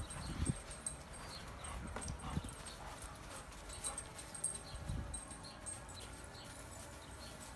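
Dogs playing rough: scuffling, irregular thumps and scattered clicks of paws, with a few dog sounds.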